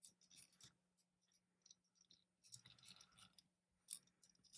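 Faint clicks and scrapes of small plastic model-kit parts being handled and pressed together, with a sharper click about four seconds in.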